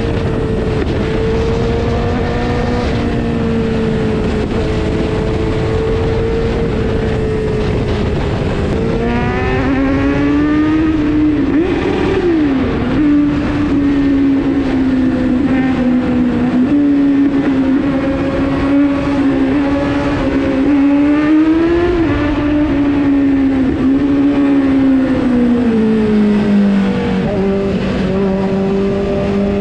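Kawasaki Z900's inline-four engine running hard at high revs under way, with wind rushing. Its pitch climbs steeply about nine seconds in, wavers and dips briefly with throttle and gear changes, and falls and settles lower near the end.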